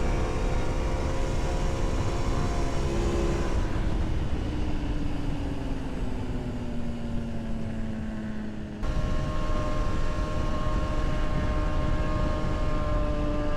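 Aprilia Tuono V4 motorcycle engine running at speed, with wind rushing over the microphone. The engine note holds steady, then falls slowly for several seconds as the bike slows, then jumps abruptly about two-thirds of the way in to a steady, higher note.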